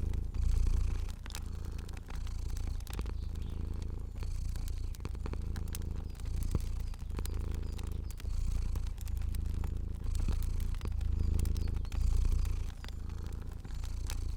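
Domestic cat purring steadily, a deep rumble that swells and eases about once a second, with scattered sharp pops and clicks of a crackling fire.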